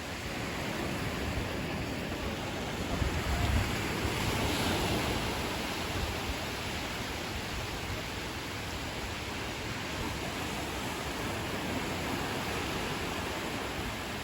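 Ocean surf washing onto a beach in a steady hiss, swelling as a wave breaks about four seconds in, with a low rumble of wind on the microphone just before it.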